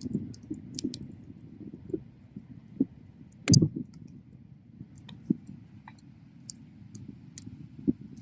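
Bonfire crackling: wood snapping and popping at irregular intervals over a low steady rush of flame, with one loud pop about three and a half seconds in.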